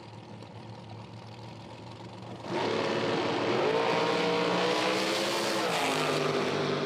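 Drag racing cars' engines: a low steady hum, then about two and a half seconds in a sudden loud blast of engine noise at full throttle, its pitch climbing as they accelerate.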